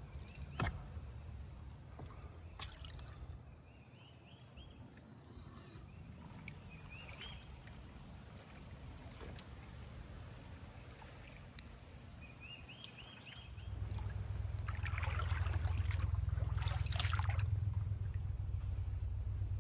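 A paddle dipping into swamp water, with dripping and small splashes. A steady low rumble comes in about two-thirds of the way through.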